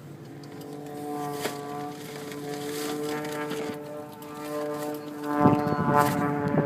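Aerobatic airplane's engine droning in the distance with a steady, slightly wavering pitch. Wind buffets the microphone from about five seconds in.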